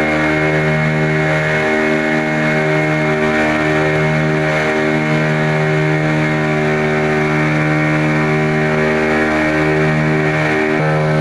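Motor boat's engine running steadily under way: an even, unbroken drone.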